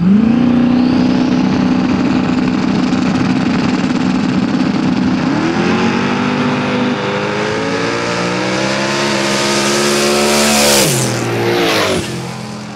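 Two drag cars' engines revved up and held at a steady high rev on the starting line, then launching about five seconds in, the engine pitch climbing steadily as they accelerate down the track. Near the end the pitch falls sharply.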